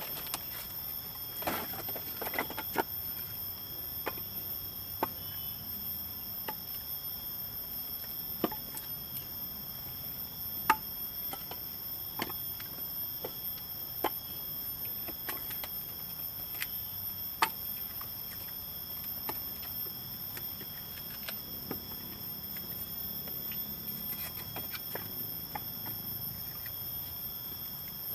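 Steady high-pitched insect chorus of several constant tones, with sharp knocks or taps coming irregularly every second or two.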